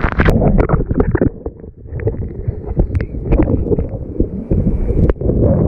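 Strong wind buffeting the microphone in a heavy, uneven rumble, with water splashing in irregular bursts as a kiteboard skims over choppy water.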